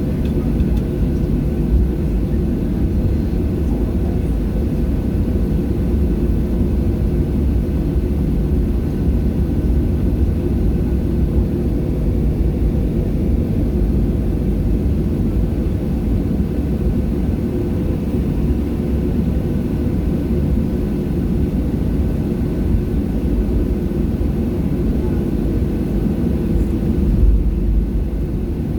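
Cabin noise of a Boeing 737-700 with its CFM56 jet engines running: a steady, loud drone with a deep rumble and a few steady tones. There is a brief low thump near the end.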